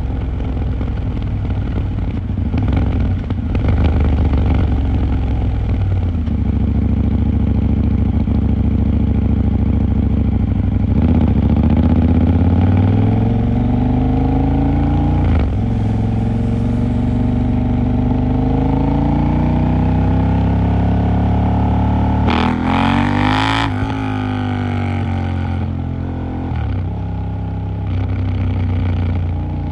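KTM 890 Duke R's parallel-twin engine running through city riding, its pitch rising under throttle a few times in the middle. About three-quarters of the way in there is a brief, louder burst whose pitch climbs and drops quickly.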